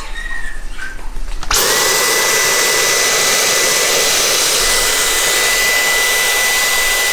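An electric blower motor switched on about a second and a half in, spinning up quickly to a loud, steady rush of air with a high whine held at one pitch.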